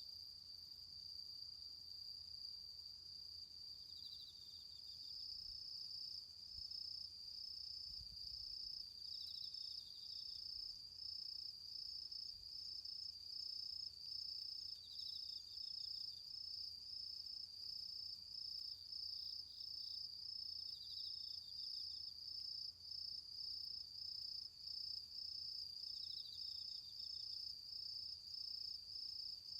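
Autumn insects singing: a steady high trill that turns into an even, quick pulsing a few seconds in, with a second insect giving a short chirp about every five or six seconds.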